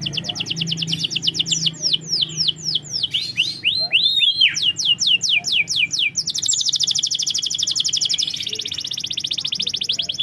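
Domestic canary singing: runs of quick downward-sweeping whistled notes, a few arching notes about four seconds in, then from about six seconds a very fast, even trill.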